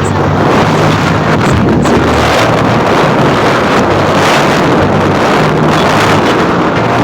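Heavy wind buffeting on the microphone of a moving motorcycle at road speed, a loud, steady rush.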